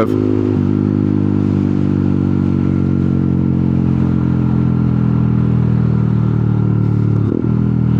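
125cc motorcycle engine running at steady revs while riding, heard from the rider's helmet. The engine note changes briefly about half a second in and dips again near the end.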